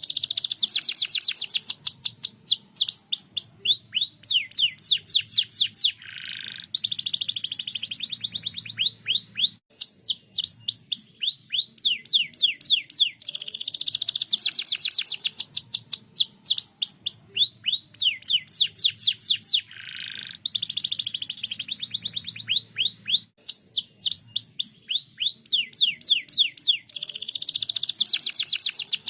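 Domestic canary singing nonstop: long, rapid trills of quickly repeated downward-sweeping notes, twice broken by a short, lower rolling trill.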